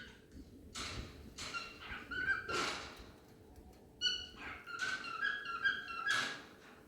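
Cockatiels whistling and chattering: short pitched whistled notes broken up by harsh, raspy chirps, coming in bursts with brief pauses between them.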